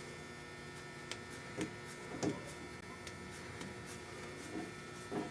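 A few soft, muffled knocks as an arm bone bumps against the metal inside an upturned engine block, over a faint steady hum.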